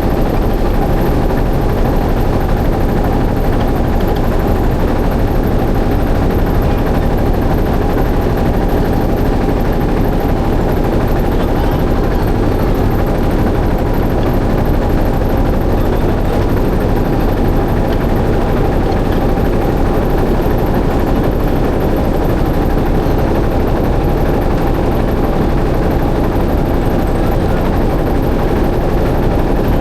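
Motorboat engine running steadily at a constant, loud level, with no change in speed.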